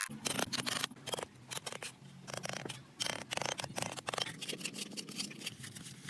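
Irregular run of sharp clicks and snips from handwork on a small model, over a faint steady low hum.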